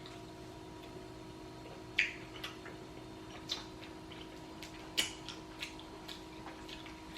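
Mouth sounds of eating seafood up close: a handful of short, sharp smacks and clicks at irregular intervals over a faint steady hum.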